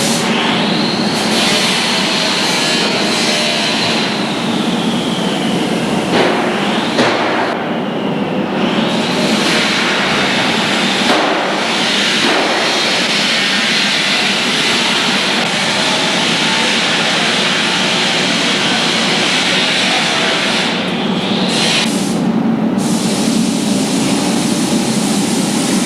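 Loud steady rushing hiss over a low drone. A higher hiss comes in about a second in, fades around four seconds, returns near nine seconds, and drops out after about twenty seconds.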